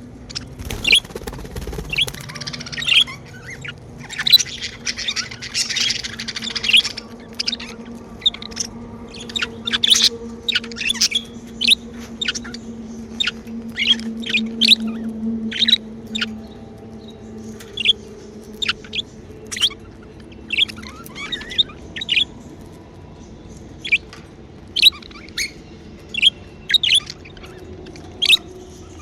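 Pet budgerigars chirping: a steady run of short, high chirps, with a denser stretch of chatter about four to seven seconds in.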